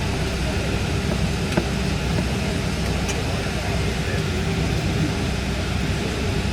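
Steady low hum and rush of an airliner cabin's air conditioning and ventilation inside a Boeing 777-200, with a couple of faint clicks.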